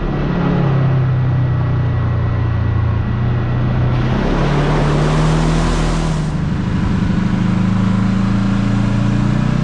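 Kawasaki KRX side-by-side's parallel-twin engine running on the move, its pitch rising and falling with the throttle. From about four to six seconds in, a loud rushing noise covers it.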